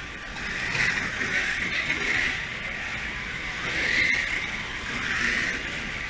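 Small electric motors and gears of slot cars whining around the track, the high whine swelling and fading four times as the cars pass.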